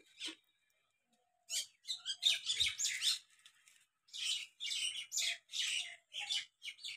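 Birds chirping and chattering in quick, repeated high-pitched bursts.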